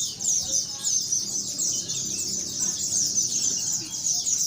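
Many white-eyes (pleci) singing at once: a dense, unbroken chorus of fast, high, overlapping twitters.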